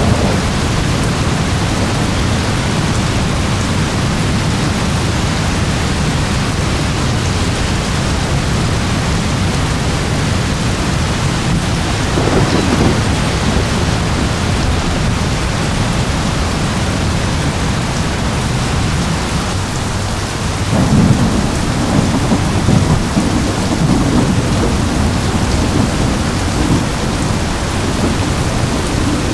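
Steady heavy rain with rolling thunder: a brief low rumble about twelve seconds in, and a longer, louder rumble starting about two-thirds of the way through.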